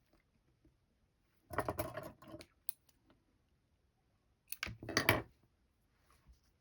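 Handling of embroidery thread and supplies at close range: two bursts of rustling and clicking, one about a second and a half in and one about five seconds in.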